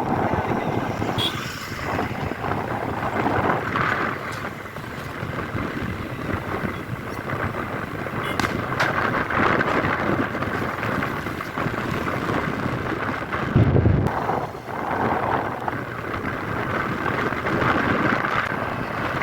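Steady rain with wind buffeting the microphone, and one strong low gust about two-thirds of the way through.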